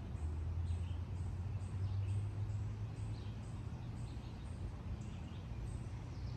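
Outdoor woodland ambience: faint high bird chirps repeating every half second or so over a steady low rumble.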